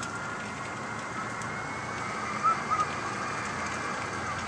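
Heavy monsoon rain and wind heard through a closed window as a steady rushing noise, with a thin high whistle that slowly rises in pitch. Two short high chirps come just past halfway.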